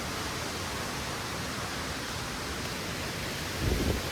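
Steady rushing of fast-flowing water. A short low rumble, like wind buffeting the microphone, comes about three and a half seconds in.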